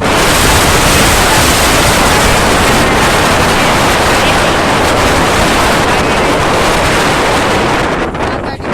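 Wind buffeting the microphone: a loud, steady rush of noise that cuts in abruptly and eases briefly near the end.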